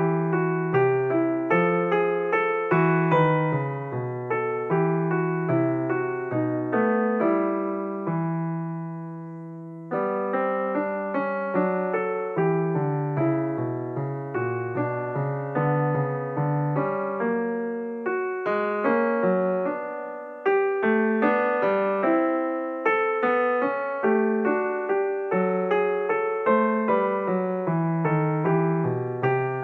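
Background piano music: a gentle melody of struck notes over a bass line, with a held chord left to fade about eight seconds in before the playing resumes.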